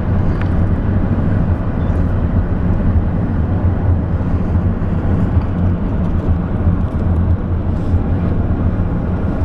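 Steady road noise inside a moving car's cabin: a constant low hum of engine and tyres.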